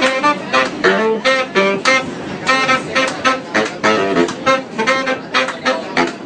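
Saxophone playing a fast run of short, detached notes, about four a second.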